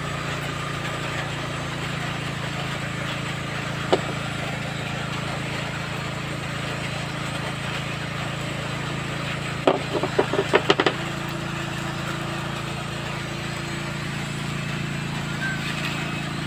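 Backhoe's diesel engine idling steadily, with a single sharp knock about four seconds in and a quick run of about six metallic knocks around ten seconds in.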